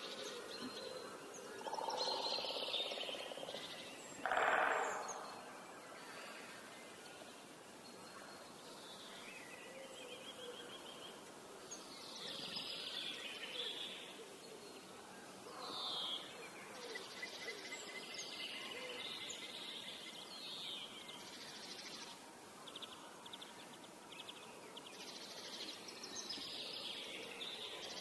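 Several birds singing and calling, with short chirping phrases throughout, over a steady hiss of running water. About four and a half seconds in comes a louder, lower sound lasting about a second.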